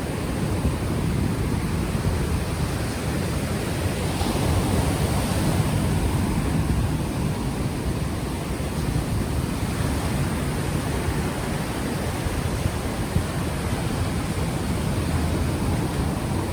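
Ocean waves washing onto the shore, with wind buffeting the unshielded microphone into a heavy low rumble. The surf swells a little about four seconds in.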